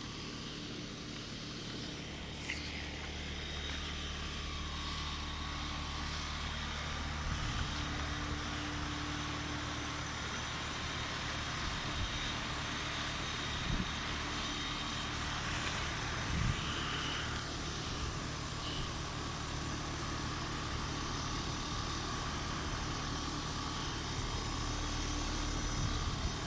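Carrier heat-pump outdoor unit running in heating mode: a steady compressor hum and fan noise, with a few faint knocks along the way.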